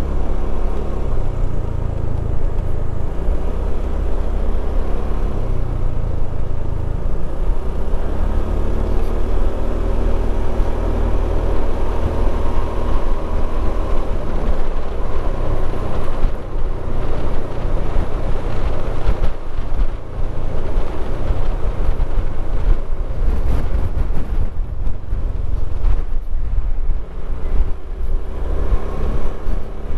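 Motorcycle engine running under way, its pitch slowly rising and falling with speed, over a heavy low wind rumble on the microphone.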